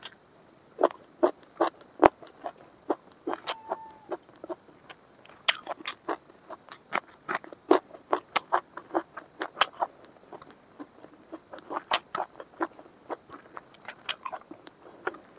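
A person chewing chicken dry fry with rice close to the microphone: a run of short wet mouth clicks and smacks, a few every second, with short pauses between runs.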